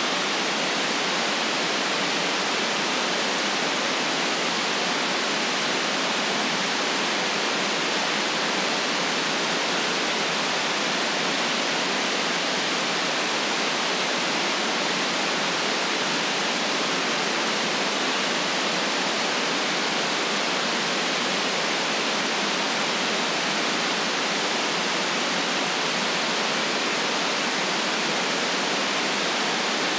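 Steady synthetic white noise: an even, unchanging hiss, cut off sharply above the middle treble and thin in the bass.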